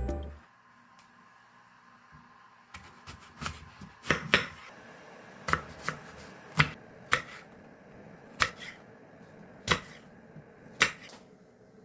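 Kitchen handling sounds: about a dozen sharp knocks and clicks at uneven intervals, like utensils, dishes or a knife meeting a hard surface, over a faint steady room hum.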